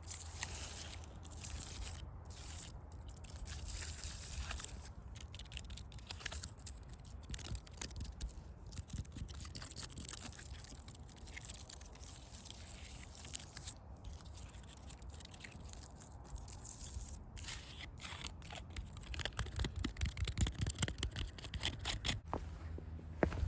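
Close-up scratching and scraping with a crackly texture, then footsteps on a forest path starting about three-quarters of the way through.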